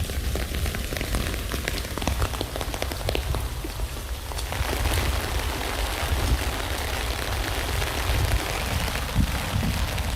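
Rain falling on a tent: a dense patter of individual drops over a low rumble, thickening into a heavier, more even hiss about halfway through.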